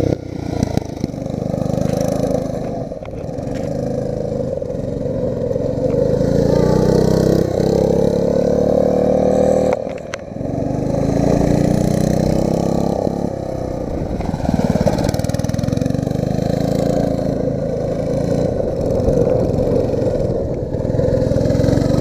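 8 hp go-kart engine running under load, its pitch climbing slowly as the kart accelerates, dropping off sharply about ten seconds in, then climbing again.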